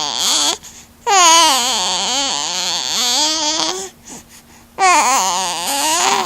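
Baby vocalizing in long, wavering, whiny cries and babble: a short one at the start, a long one from about a second in lasting about three seconds, and another near the end.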